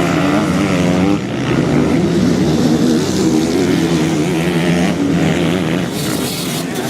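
Motocross motorcycle engine running with its revs rising and falling, with a dip in level about a second in.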